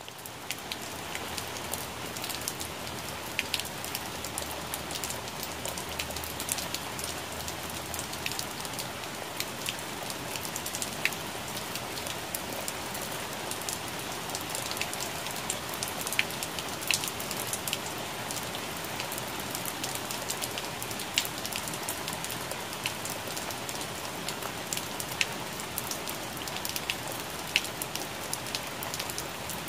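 Rain falling on plant leaves: a steady patter with many sharp individual drop hits ticking out above it.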